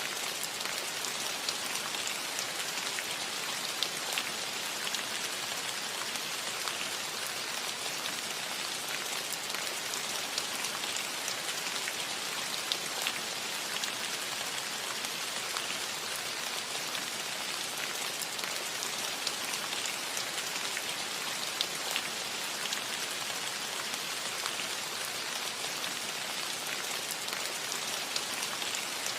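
Steady rain falling on a metal roof: an even hiss of rain with scattered sharp drop ticks on the metal.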